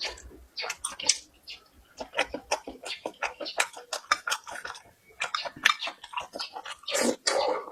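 A person chewing food up close to the microphone, a dense run of quick, irregular wet clicks, with a louder stretch about seven seconds in.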